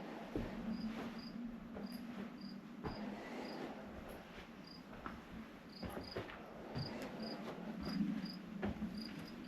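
A cricket chirping, short high chirps about twice a second, over a low hum, with a few scattered knocks.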